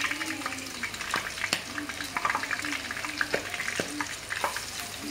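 Squid pieces dipped in tempura batter deep-frying in hot oil: a steady sizzle dotted with many small crackling spits and a few sharper pops.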